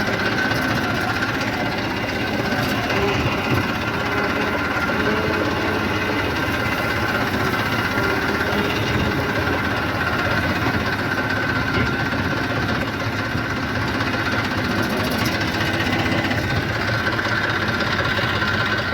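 Eicher 333 tractor's diesel engine running steadily, with a faint steady whine above the engine note.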